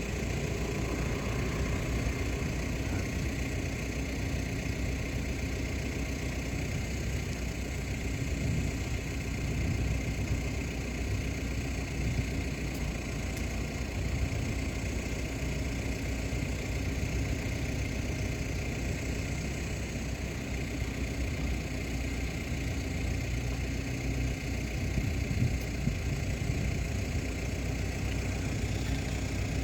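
Tugboat's diesel engine running steadily at an even pitch, with no change in speed.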